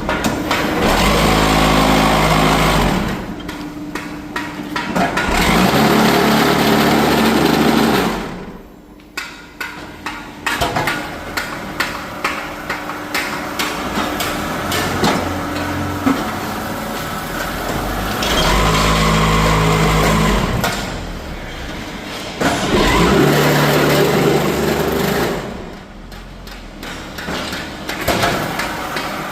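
Machinery running in loud surges a few seconds long, each with a motor-like hum, separated by stretches of clattering knocks.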